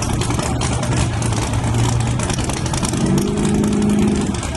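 Drag-racing engine running loud and choppy with a steady low drone. About three seconds in, a higher steady engine note joins for about a second.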